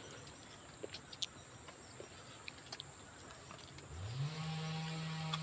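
Faint outdoor background with a few small clicks, then about four seconds in a motor starts up, its hum rising quickly in pitch and then holding steady.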